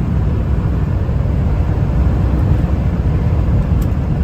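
Ford F-350's 7.3-litre turbo-diesel V8 and tyres cruising at highway speed in overdrive, around 80 mph: a steady low drone and road rumble.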